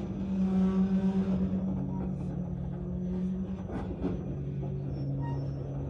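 Freight train of tank cars rolling slowly by, with a steady low drone and a few short clanks about two and four seconds in.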